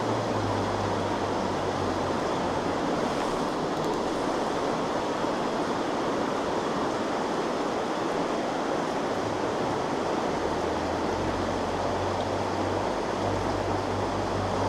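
Stream water rushing steadily as an even, continuous wash.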